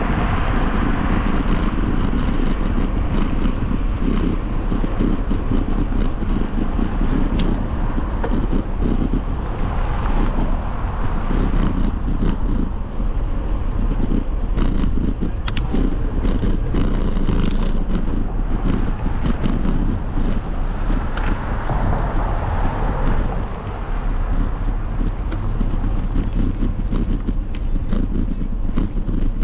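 Wind buffeting the microphone during a bike ride, a steady loud rumble mixed with riding noise, with scattered light rattling clicks through it.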